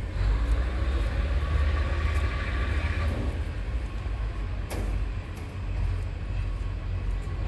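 DR2100-series diesel railcar running, a steady low rumble with one sharp knock about five seconds in.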